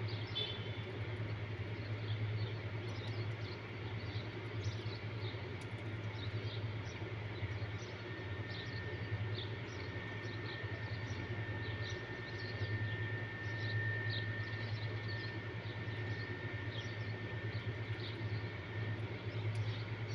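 Outdoor evening ambience: a steady low hum under many short scattered bird chirps, with a thin, steady high tone held for about ten seconds in the middle.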